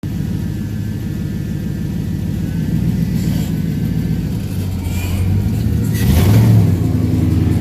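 Loud truck engine running low and steady, then revved up briefly about six seconds in.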